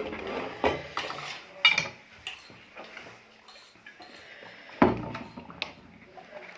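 Plates and cutlery clinking and knocking as dishes are handled at the end of a meal: several sharp, separate clinks spread through, the loudest about five seconds in.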